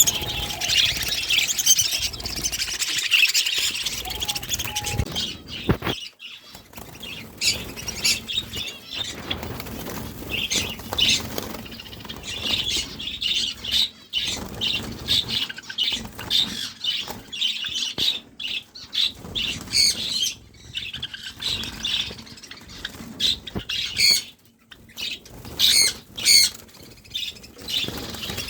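A crowd of small caged pet birds, finches and parakeets among them, chirping and squawking without a break, with wings fluttering against the cages; a few loud, repeated high calls stand out near the end.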